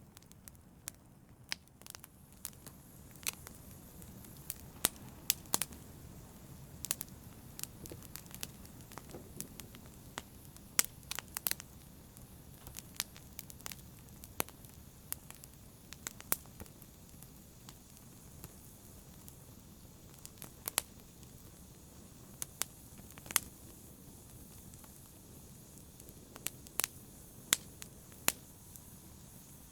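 Fire crackling in a fireplace: irregular sharp pops and snaps, a few of them loud, over a low steady rush of burning.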